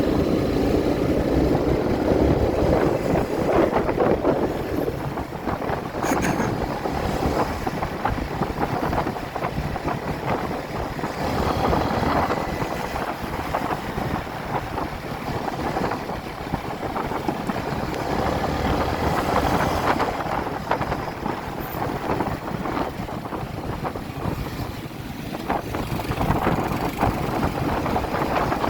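Motorcycle engine running at road speed under heavy wind noise on the microphone.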